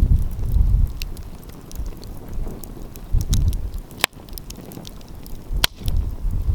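Wood fire crackling with scattered small pops and two sharp, loud snaps partway through. Low gusts of wind buffet the microphone now and then.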